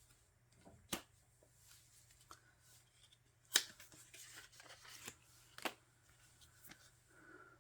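Paper and plastic album contents and photocards being handled and shuffled. Faint rustling is broken by a few sharp clicks and snaps, the loudest about three and a half seconds in.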